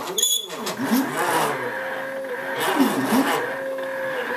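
Stepper motors of a hobby CNC drawing machine whining as the axes move, the pitch sweeping up and down repeatedly as the motors speed up and slow down, with two stretches of steady held tone. There is a brief high squeak about a quarter second in.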